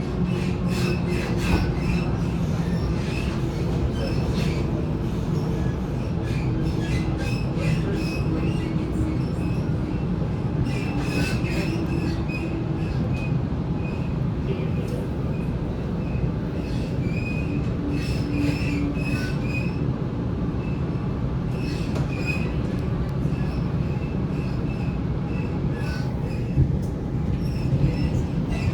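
Waratah A set electric train running along the track: a steady rumble with a thin, high wheel squeal coming and going and scattered clicks from the rails.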